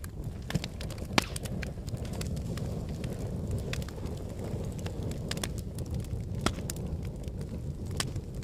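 Wood fire burning in a fireplace: a steady low rumble of flames with scattered sharp crackles and pops, the loudest a little over a second in.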